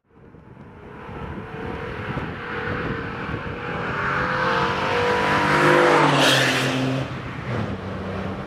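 Opel Vectra B's 2.6-litre V6 (Y26SE), with pre-cats removed and a Jetex Group A exhaust, accelerating: the engine note climbs in pitch and gets louder for about five seconds. About six seconds in the pitch drops sharply with a brief rush of noise, then the engine runs on at a lower, steady note.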